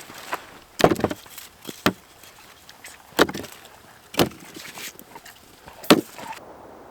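Firewood being chopped and split: five sharp strikes of a blade into wood, roughly a second apart.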